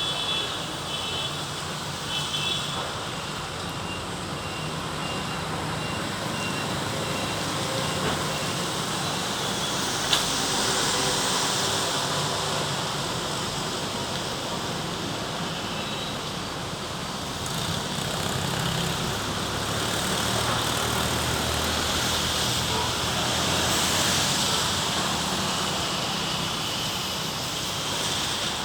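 Road traffic in heavy rain: a steady wash of rain and tyres hissing on the wet road over a low engine hum. The hiss swells around ten seconds in and again past twenty seconds as vehicles pass, with one sharp click about ten seconds in.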